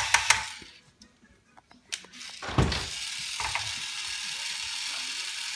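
Plastic toy tractor making a quick run of ratcheting clicks, then a pause, a single knock, and a steady hiss.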